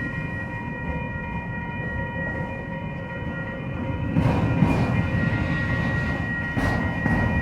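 Norfolk Southern freight train rolling past: a steady low rumble of wheels on rail with a steady high whine over it, and a few sharp clanks about four seconds in and again near the end.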